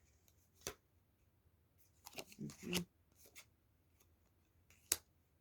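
Fortune-telling cards being handled and laid out: a few separate quiet snaps and clicks, the sharpest near the end, with a brief faint murmur about halfway through.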